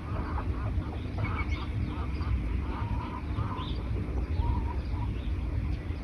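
Birds calling: bursts of short repeated notes, busiest in the first couple of seconds and then scattered, over a steady low rumble.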